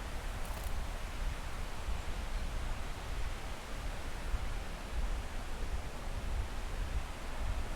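Waterfall's falling water rushing steadily, with a low rumble underneath.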